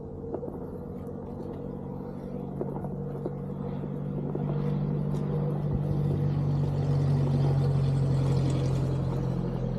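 Onewheel GT hub motor humming steadily while riding, with tyre and trail noise underneath, growing louder from about four seconds in.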